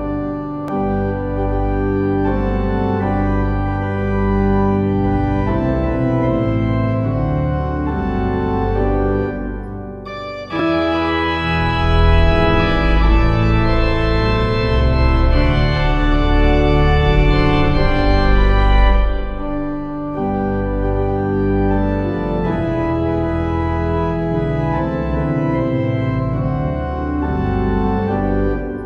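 Organ music playing slow, held chords. It thins out briefly about ten seconds in, then comes back fuller and louder until about nineteen seconds, and settles again.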